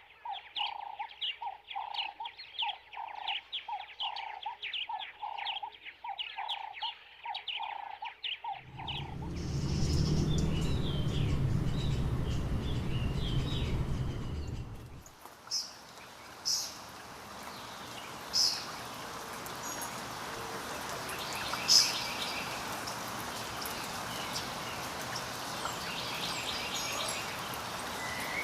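Bird calls: first a short call repeated about twice a second, then a loud low rumbling noise for several seconds with chirps over it, then scattered sharp chirps over a steady hiss.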